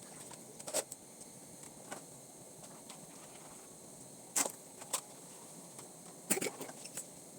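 A few sharp clatters of metal pots and utensils being handled during washing up: one knock about a second in, two more around the middle, and a short cluster of clinks near the end, over a low steady hiss.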